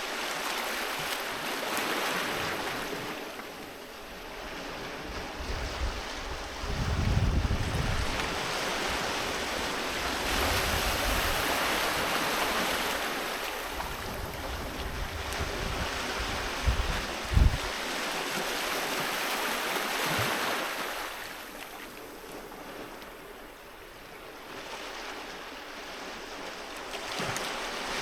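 Sea waves breaking and washing up a beach, the surf swelling and ebbing every few seconds. A couple of brief low thumps stand out, the loudest about 17 seconds in.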